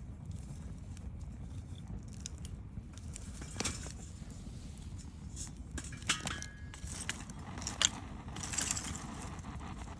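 Wood campfire burning over a steady low rumble, with a few sharp pops and snaps from the burning wood, the loudest around six seconds and near eight seconds, and a short hiss just after.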